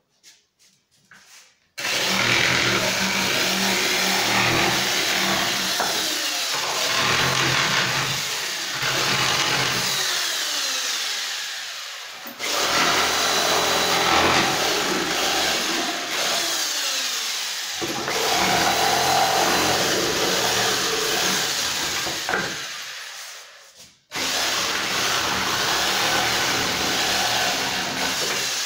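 Einhell Bavaria BPS 600E electric saw running and cutting wood in three long runs. Each run starts suddenly at full speed. The first two tail off as the motor winds down before the next start.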